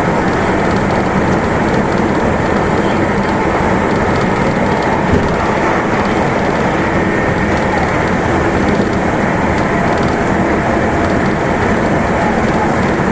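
Meitetsu Nagoya Main Line limited express running at speed, heard from inside a passenger car: a steady rumble of wheels on the rails and running gear.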